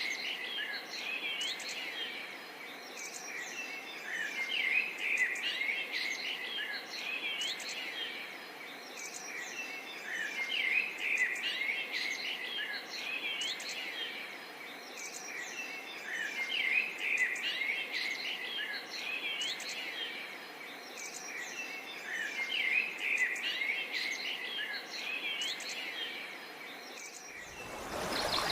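Many small birds chirping and calling in a dense chorus, with short quick notes that swell and fade about every six seconds. A loud, even rushing noise sets in near the end.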